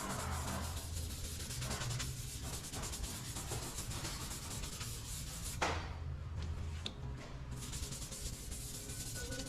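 Sanding on the car's body filler, a steady rough scraping of abrasive paper on the panel, with a single sharp knock about halfway through.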